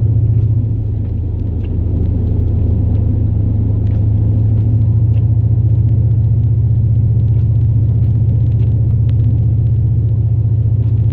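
Low, steady drone of a 2002 Chevrolet Silverado plow truck's 8.1-litre big-block V8 and drivetrain while driving, heard from inside the cab; it eases slightly for about a second near the start.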